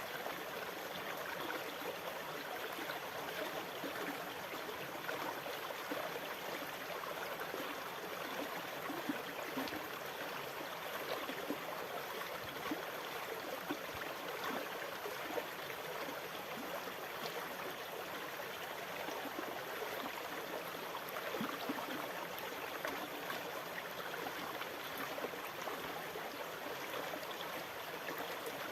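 Steady running water, an even unbroken wash flecked with small splashy ticks, with no rise and fall of breaking waves.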